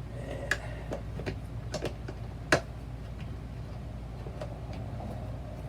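Scattered light clicks and knocks of RV toilet parts being handled and fitted during a flush-valve replacement, with one sharper knock about two and a half seconds in, over a steady low hum.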